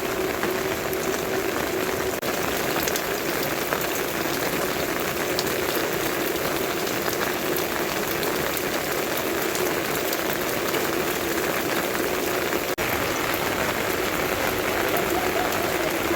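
Steady rain falling, a dense, even hiss of many small drops, broken by two very short dropouts.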